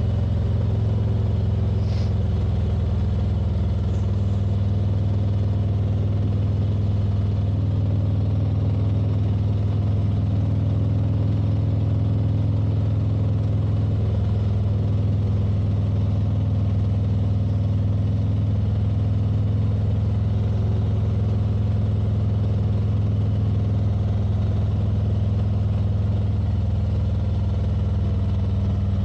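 Motorcycle engine running at a steady cruise, heard from on the bike: an even, unbroken low drone with no change in speed.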